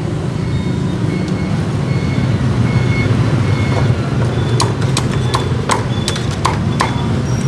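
Cleaver chopping roast pork on a wooden chopping block: a quick run of about eight sharp chops from about halfway in, over a steady low rumble.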